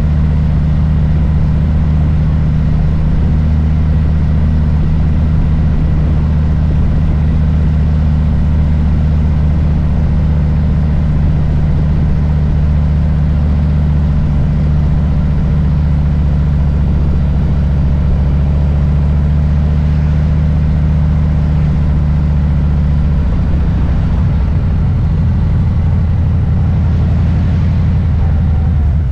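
Harley-Davidson Low Rider S's Milwaukee-Eight V-twin running at a steady engine speed, a deep low rumble; about 23 seconds in its note changes slightly.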